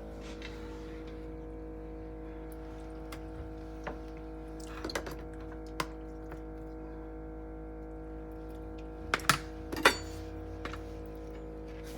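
Kitchen handling sounds: a few scattered clicks and knocks of utensils and containers, the loudest three coming close together about nine to ten seconds in, over a steady electrical hum.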